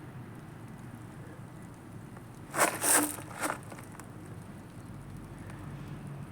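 Bonfire of tree branches burning with a steady low rush, broken about two and a half seconds in by a brief cluster of three loud crackling snaps.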